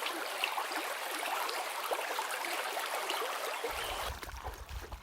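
River water rushing and splashing, a steady flowing-stream sound full of small splashes. A low rumble joins it near the end.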